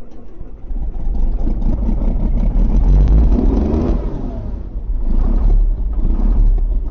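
Tractor engine cold-starting in freezing weather after being pre-warmed with a heater: it cranks with a rapid even knocking, catches under a second in, revs up and back down around three to four seconds in, then keeps running loudly.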